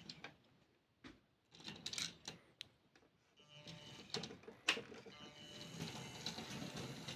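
Faint, scattered clicks and light knocks of small plastic model railway pieces being handled, with a soft rustle building near the end.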